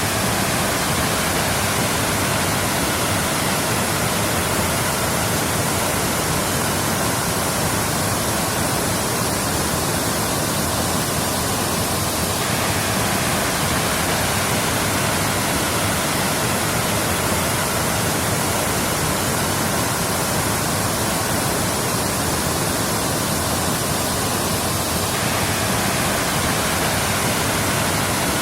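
Waterfall: water pouring and splashing steadily, a constant, unbroken rushing hiss.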